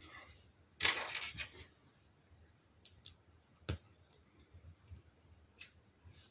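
LEGO Technic plastic pieces being handled and snapped together: a brief clatter of parts being rummaged about a second in, then single sharp clicks a couple of seconds apart.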